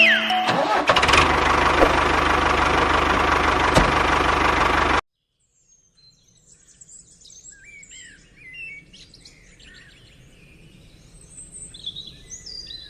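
A small motor running steadily with a fast, even low pulsing, which cuts off abruptly about five seconds in. Faint bird chirps and calls follow.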